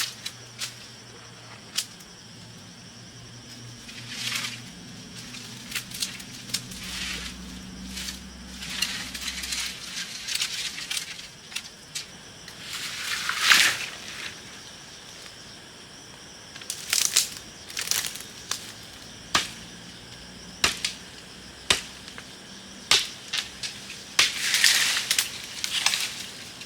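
Irregular sharp knocks and snaps from bamboo and wood being worked by hand, with a few longer rustling swishes, the loudest about halfway through and near the end.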